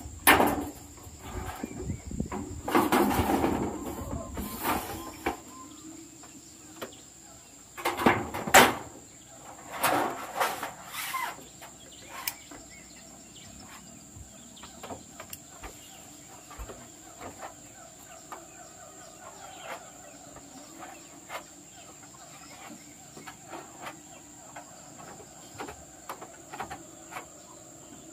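Irregular knocks and clatter from work on zinc roofing sheets, with a few louder bursts of noise in the first dozen seconds, over a steady high insect buzz.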